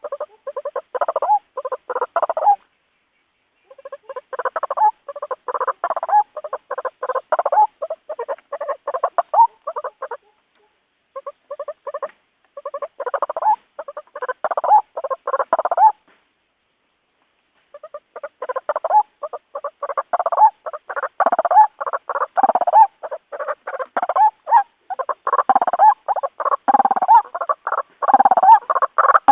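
White-breasted waterhen calls played as a lure: quick repeated call notes, several a second, in runs of a few seconds broken by short pauses. The calling grows denser and louder in the second half.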